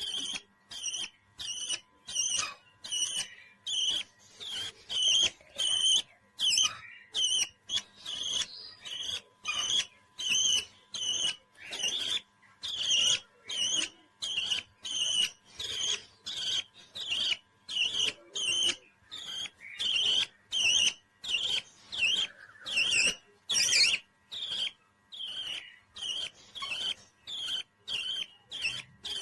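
Parrot chirping in a fast, even series of short, high calls, about two a second.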